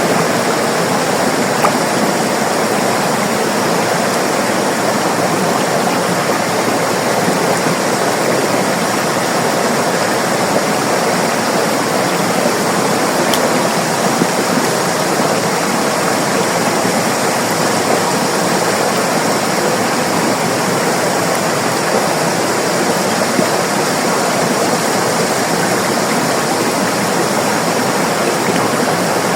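River water flowing and splashing over rocks: a steady, dense rushing without letup, with a few faint ticks and splashes.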